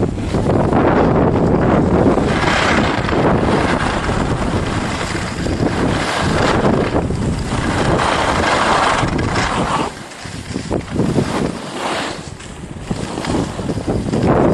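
Wind rushing over the microphone of a skier on the move, a loud steady roar with surges. It eases off about ten seconds in and builds again near the end.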